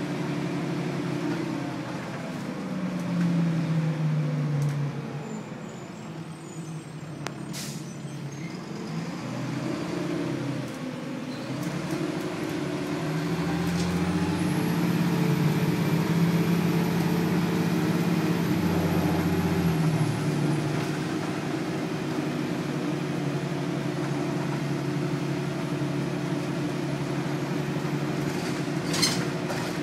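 Inside a 2000 Nova Bus LFS: its Detroit Diesel Series 40 engine and Allison B400R automatic transmission drone steadily. The engine note dips, then rises as the bus pulls away and accelerates, grows louder for several seconds, and settles into steady cruising. Two short sharp clicks come about a third of the way in and near the end.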